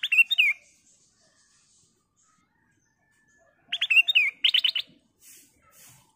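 Black-crested bulbul (kutilang emas) calling in two short bursts of quick chirping notes, one right at the start and one about four seconds in. The second burst ends with a fast run of four repeated notes.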